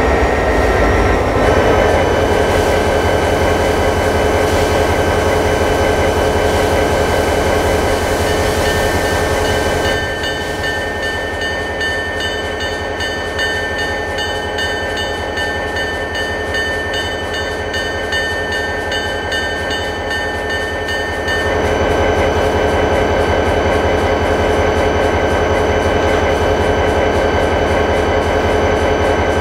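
A train moving, a steady running sound with several constant tones. About a third of the way through it turns slightly softer with a fine, rapid, even ticking, then returns to its earlier level near two thirds of the way.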